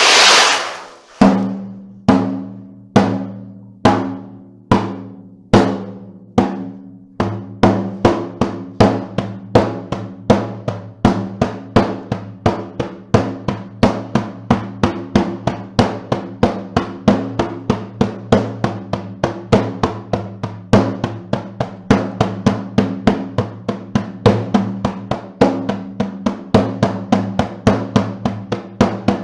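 Ocean drum (a bead-filled frame drum) struck in a steady beat, each stroke a low ringing thud that fades. It starts at about one stroke a second and, about seven seconds in, picks up to a faster, even pulse of two to three strokes a second.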